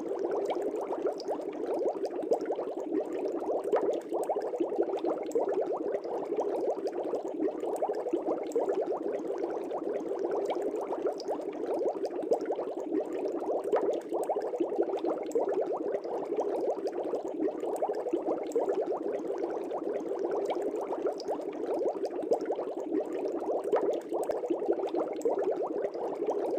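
Aquarium air bubbles rising and breaking at the water surface in a steady, dense bubbling with no pauses.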